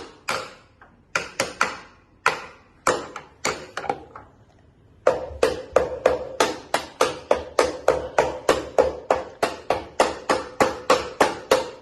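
A series of sharp knocks, each with a short ringing note. They come irregularly at first, then after a brief pause about five seconds in they run as a steady rhythm of three to four a second.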